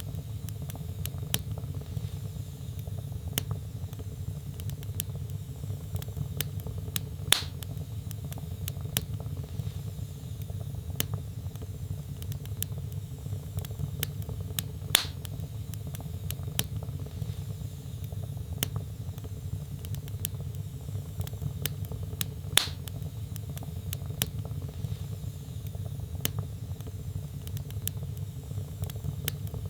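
Wood fire burning in a fireplace: a steady low rumble of flames under many small sharp crackles, with three louder pops spaced evenly about seven and a half seconds apart.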